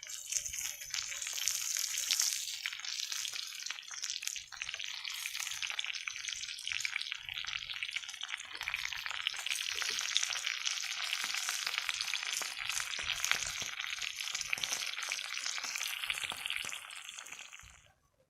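Food frying in a pan: a steady sizzling hiss full of fine crackles, which cuts off suddenly near the end.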